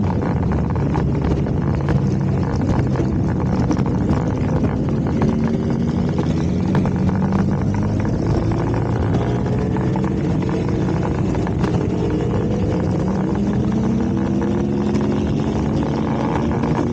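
Motorcycle engine running under way, its pitch slowly rising and easing with the throttle, over steady wind and road noise.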